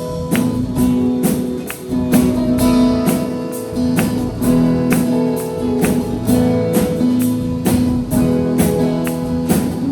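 Instrumental worship-band music: a strummed guitar playing sustained chords over a regular percussive beat, with no singing yet.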